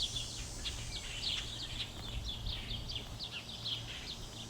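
Birds chirping: a busy run of short, quick downward-sliding chirps, several a second and overlapping, over a faint steady high whine.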